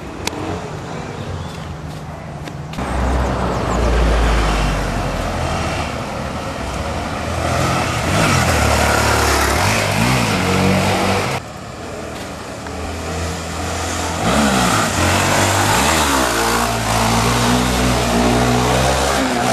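Single-cylinder four-stroke trail motorcycle engine revving hard, its pitch climbing and falling repeatedly as the throttle is worked. The sound drops off sharply about eleven seconds in, then the revving builds again.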